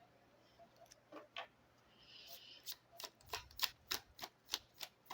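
Fortune-telling cards being handled and shuffled: a brief soft slide of cards, then a quick run of light, sharp clicks, about three or four a second, as cards are flicked off the deck.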